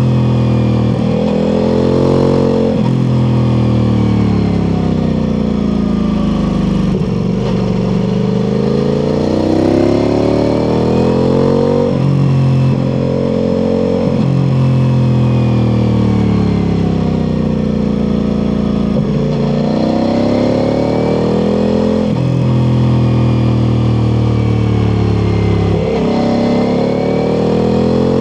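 Ducati Multistrada V4 Pikes Peak's V4 engine through an Akrapovic exhaust, heard onboard while riding. Its pitch climbs under acceleration and falls off again, over and over, with quick breaks and steps at the gear changes.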